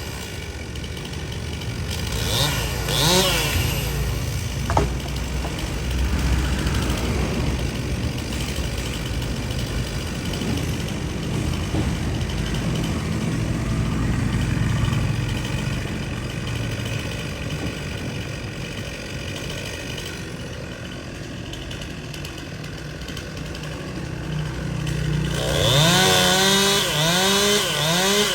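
Chainsaw engine running low for most of the time, then revved repeatedly near the end, its pitch rising and falling with each blip of the throttle.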